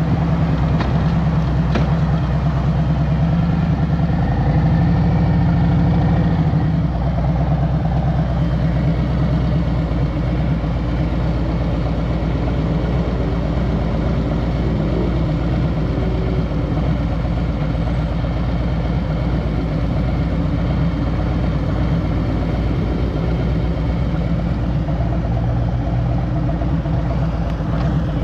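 2023 Harley-Davidson Road Glide Special's Milwaukee-Eight 114 V-twin running on the road, louder for the first six seconds or so, then easing off to a steadier, slightly lower engine note.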